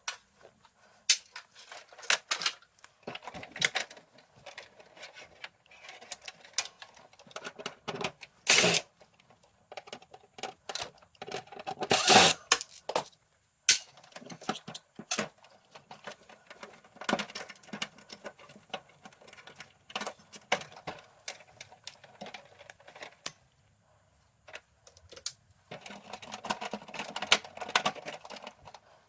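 Irregular clicks, taps and short rattles of hard plastic and metal parts being handled, with a few louder knocks, as the stand air conditioner is being taken apart. The sounds stop briefly near the end, then resume.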